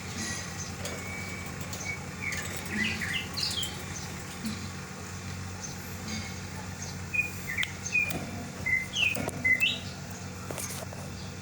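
Lovebird giving short, sharp rising chirps in two runs, one about two seconds in and another from about seven seconds in: contact calls to a companion that has left the cage.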